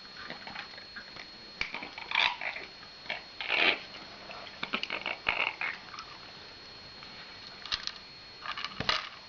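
A cat and a parrot scuffling over food: scattered clicks and short, harsh noisy bursts in irregular clusters, loudest about two to four seconds in and again near the end.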